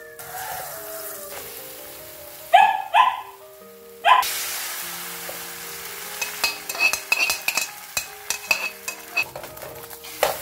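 Egg batter sizzling in hot oil in a nonstick frying pan, over background music. A dog barks three times about 2.5 to 4 seconds in, the loudest sounds here. From about 6 seconds a string of sharp clicks and scrapes follows as the batter is poured and the omelette is worked with a metal spatula.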